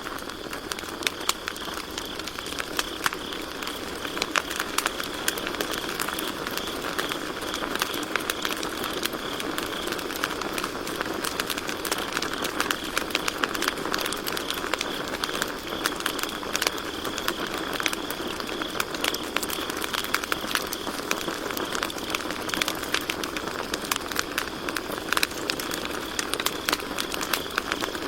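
Campfire crackling, with frequent sharp pops from the burning wood over a steady high trill of crickets.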